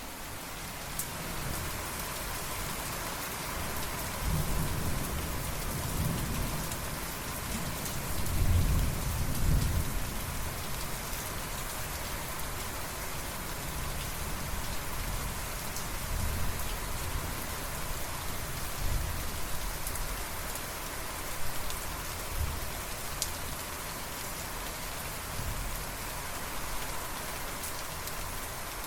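Steady rain falling, with rolls of thunder rumbling low underneath, the loudest about eight to ten seconds in.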